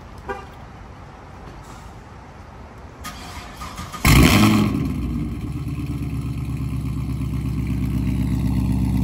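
Chevrolet Camaro SS V8 starting: the starter cranks about three seconds in, the engine catches with a loud rev flare about four seconds in, then settles into a steady idle.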